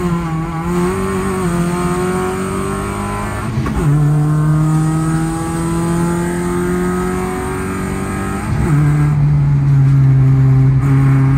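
Car engine accelerating through the gears: its pitch climbs slowly, then drops suddenly at a gear change about four seconds in and again near nine seconds.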